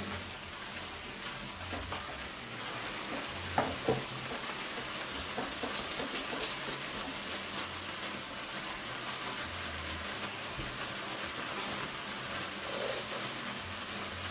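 Hand-held sparklers burning with a steady crackling hiss, with a couple of sharper pops about three and a half seconds in.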